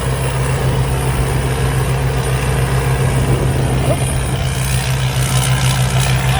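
Combine harvester's turbocharged Hino J08C diesel engine and its machinery running steadily under load, a constant low drone with a thin high whine above it.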